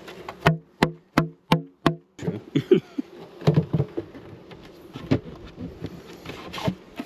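Honey bees buzzing around an open hive, broken by a quick run of five sharp knocks, then scattered irregular knocks and clatter.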